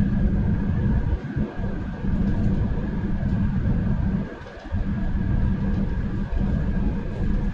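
Electric commuter train running along the track, a Hyundai Rotem Silverliner V multiple unit of Denver's RTD A Line. It makes a steady low rumble with a faint steady high tone, and the rumble dips briefly about a second in and again about four and a half seconds in.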